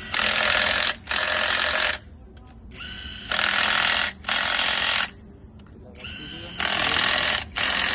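Compressed-air tool worked on a truck engine in short bursts of under a second each, fired in three pairs about two and a half seconds apart, each burst starting with a brief rising whine.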